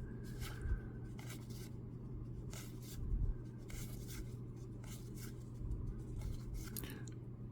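Baseball trading cards being flipped through by hand: a string of soft, short scraping and brushing sounds as the cards slide over one another, over a low steady hum.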